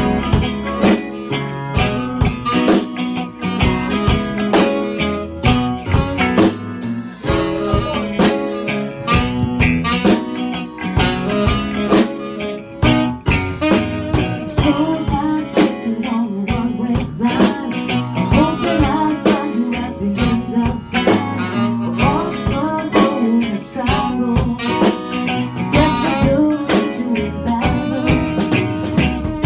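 A live band playing the verse of a blues-rock song, with a steady drum-kit beat under the other instruments.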